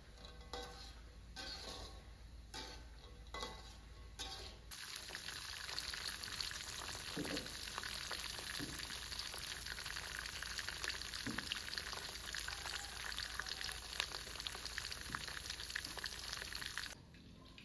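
Peanuts and whole garlic cloves deep-frying in oil in an aluminium wok: a steady, dense sizzling crackle that starts abruptly about five seconds in and stops abruptly near the end. Before it there are only a few light knocks.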